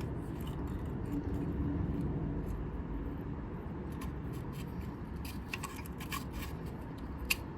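Small carburetor parts being handled and fitted by hand: light clicks and scraping of metal pieces, coming more often in the second half, over a steady low hum.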